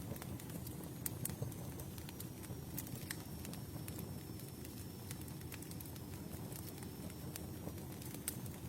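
Campfire burning: a steady low rush of flames with irregular sharp crackles and pops of burning wood. A faint, thin, high whistle runs through most of it.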